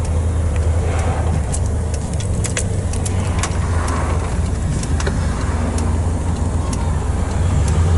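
Truck driving along, heard from inside the cab: a steady low engine and road drone, with occasional sharp clicks and rattles.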